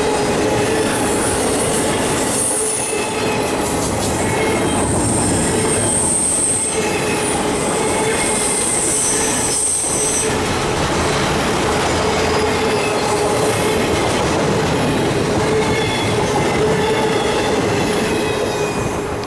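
Intermodal freight cars rolling past on curving track: a steady rumble and rattle of steel wheels on rail, with high-pitched wheel squeal from the curve coming and going, strongest in the first half. The sound begins to fade at the very end as the last car passes.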